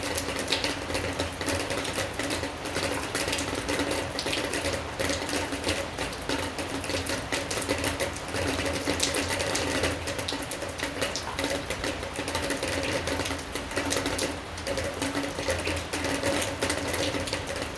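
Steady rain, its drops landing as a dense, irregular patter of sharp ticks over a constant hiss, with a faint steady hum underneath.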